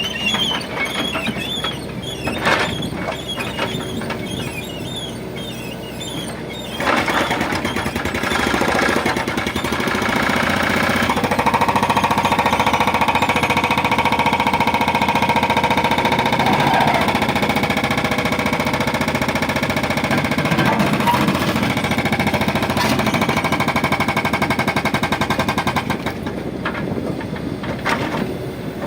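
Heavy earthmoving machine working, its diesel engine running under load. About seven seconds in a fast, dense mechanical clatter starts and grows louder, easing off shortly before the end.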